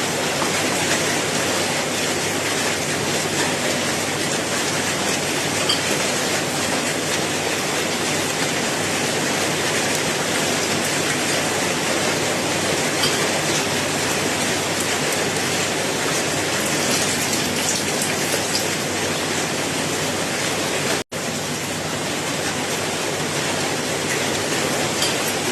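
Steady rain falling, an even hiss of drops with a few sharper drips here and there. The sound cuts out for a split second about four seconds before the end.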